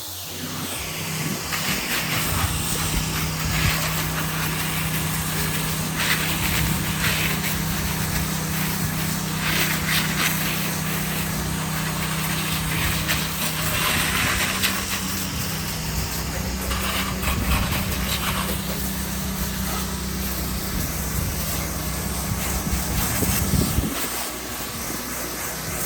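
Gas-engine water pump running steadily at a fixed pitch, with a hiss of water spraying as a soft-washed house is rinsed with plain water. The engine note falls off near the end.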